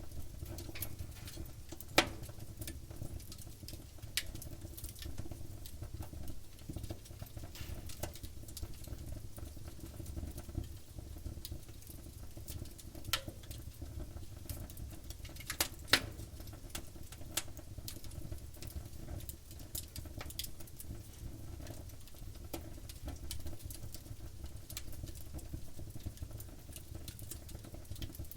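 Wood campfire crackling over a low steady rumble of the flames, with scattered small pops and ticks; a sharp pop about 2 seconds in and two close pops near the middle.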